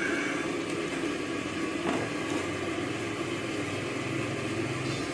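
High-pressure gas burner (kompor mawar) running at full flame, a steady rushing noise under the pan of frying oil. A light knock sounds about two seconds in.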